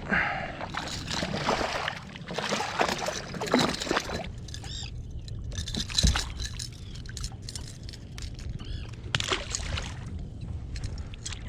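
Water sloshing, splashing and dripping at the side of a kayak as a small schoolie striped bass is brought in, with a sharp knock about six seconds in.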